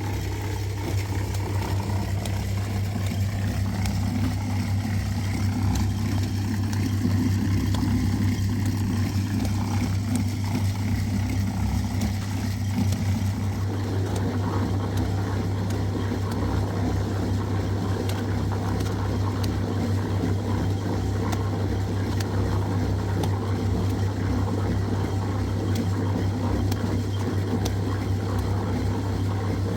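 An engine running steadily with a strong, even hum; about halfway through its tone changes a little.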